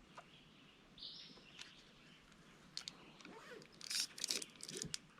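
Faint water splashes and drips from kayak paddling, a run of short sharp strokes in the second half, with a brief high bird call about a second in.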